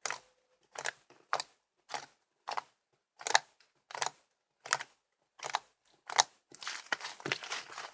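Slime being pressed and squished by hand, making sharp crackly pops roughly every half second. From about six and a half seconds in, a denser run of small crackles follows.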